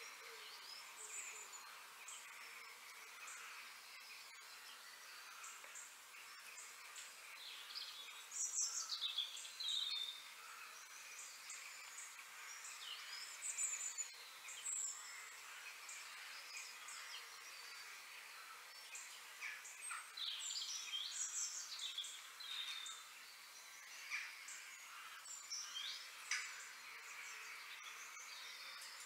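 Several birds chirping and calling, with quick falling whistles every few seconds over a faint steady background hiss.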